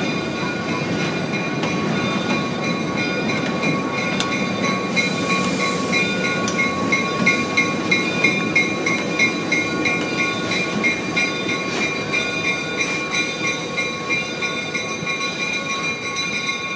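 Train rolling along the rails, a steady rumble with a few steady high ringing tones, and a rhythmic pulsing of about two beats a second through the middle.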